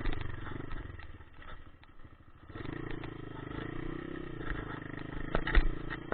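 Dirt bike engine running, quieter and uneven at first, then steadier from about two and a half seconds in. A few loud thumps come near the end.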